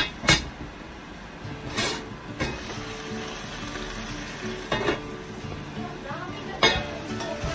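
Vegetables sizzling in a lidded casserole pot, with several clanks as the heavy lid is lifted off and set back on: near the start, around two seconds in, near five seconds and near seven seconds.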